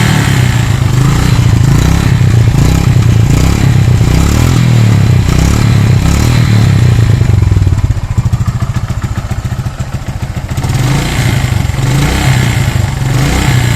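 Yamaha FZ motorcycle engine running under revs, dropping back toward idle about eight seconds in, then picking up again near the end.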